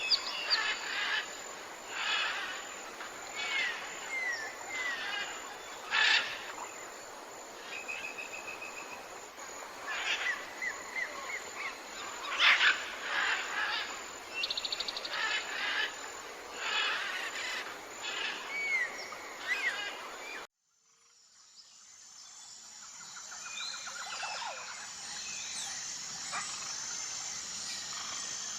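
Several songbirds singing and chirping together, with short whistles, trills and quick falling notes. About two-thirds of the way through the birdsong cuts off abruptly, and a steady, high, pulsing insect chorus, typical of crickets, fades in.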